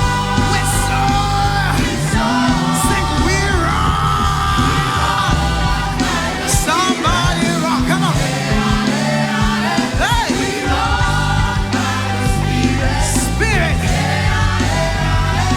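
Live gospel praise-and-worship music: a band with sustained bass and keyboard under singers' voices, the melody lines gliding between notes.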